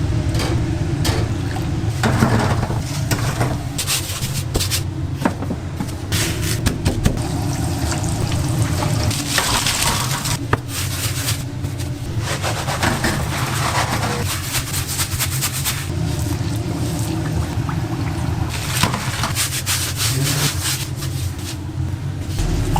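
Donut-shop kitchen sounds: a steady low machine hum, with scattered clatter and knocks and a few rushing, water-like swells.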